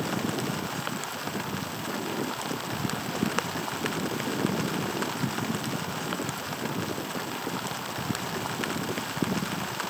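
Steady pouring rain, with many sharp ticks of single drops striking close by over an even hiss.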